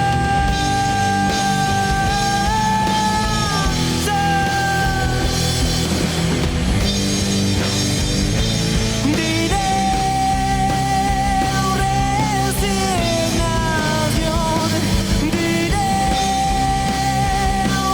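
Rock band playing with heavy distortion: dense distorted guitars and bass under a lead line of long held notes that slide up and down in pitch.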